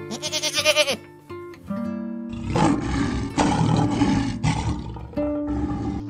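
A goat bleats once over plucked-guitar background music. About two seconds in, a loud, rough animal roar takes over for about three seconds.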